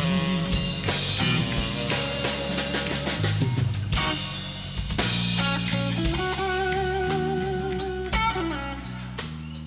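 Live blues band playing an instrumental passage: drums and bass under a lead line, with a cymbal crash about four seconds in and a long held note with vibrato from about six to eight seconds. The band eases down in level near the end.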